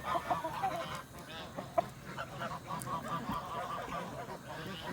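A flock of domestic geese honking and chattering in many short, overlapping calls, with one sharper, louder call just under two seconds in.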